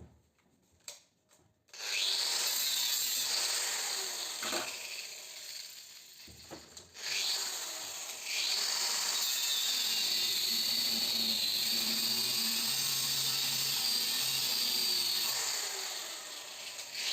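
A power tool cutting or grinding during scrapping, running in two long stretches with a short dip between them, preceded by a few light clicks.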